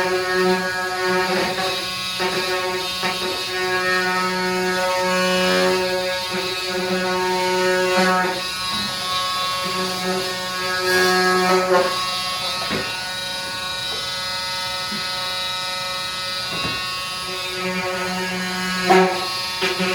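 Electric power tool motor buzzing steadily with a strong hum, with a few sharp knocks along the way.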